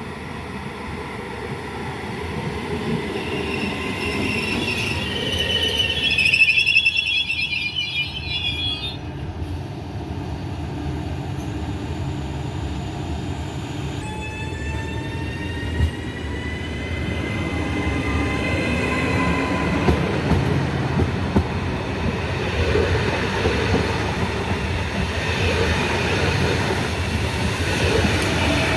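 Train rolling along the track with a steady rumble, its wheels squealing in high tones, strongest about six to nine seconds in and again around fifteen seconds in.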